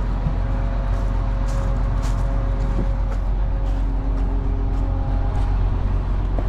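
Steady low running of a Case IH 2388 combine's diesel engine, with a few held tones and faint clicks over the rumble.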